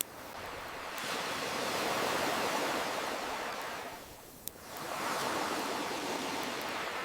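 Ocean waves surging in and drawing back, in two swells, with a single sharp campfire crackle about four and a half seconds in.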